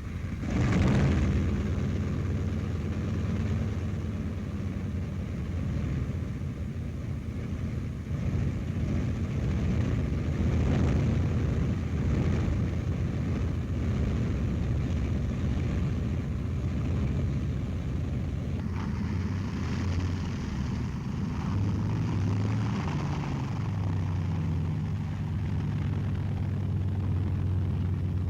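Handley Page Hampden bomber engines running after start-up, a steady propeller-engine drone whose pitch shifts a little as the engines are throttled, in the second half.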